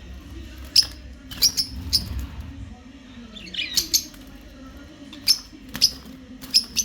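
Pet parrots giving short, sharp squawks, about ten spread over several seconds: the alarm calls of frightened birds as a hand tries to catch one.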